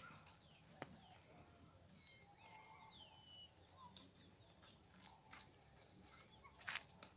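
Faint rural evening ambience. A steady high-pitched insect drone runs throughout, a few short bird chirps come in the middle, and a handful of clicks and rustles sound near the start and near the end.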